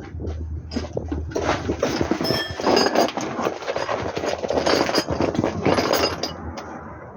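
Metal tools and parts clanking and clinking, in a dense run of knocks with short metallic rings, typical of hand work on truck brake parts. A low steady hum is heard in the first second or so, then stops.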